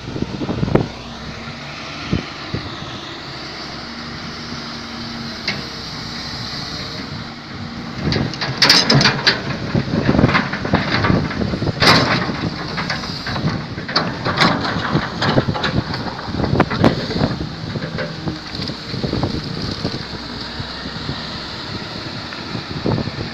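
Excavator's diesel engine running steadily, with a long spell of loud clanking and knocking through the middle of the clip as the machine works.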